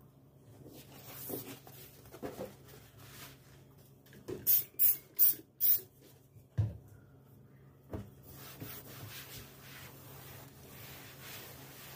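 A trigger spray bottle squirting four times in quick succession, then two light knocks and a soft rubbing sound.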